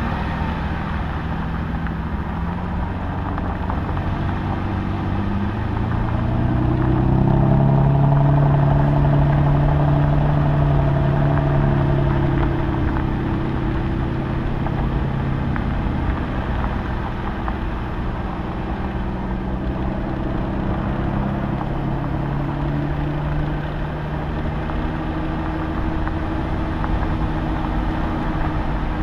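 Aston Martin engine running as the car drives slowly, heard from a bonnet-mounted camera; its note rises and grows louder about six seconds in, then eases back to a steady low run.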